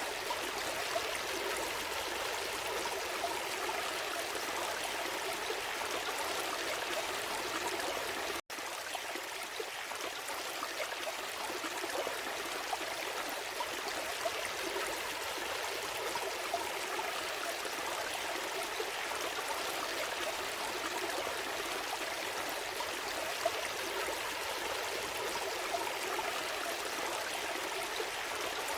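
Steady rush and babble of a small stream flowing over stones, with a momentary cut-out about eight and a half seconds in.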